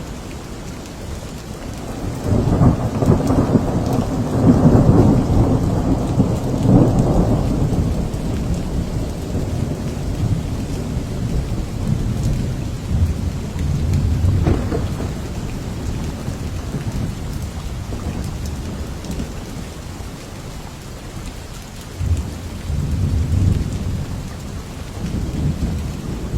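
Steady rain with rolling thunder: a long low rumble swells about two seconds in and lasts around six seconds, and a shorter, weaker rumble comes near the end.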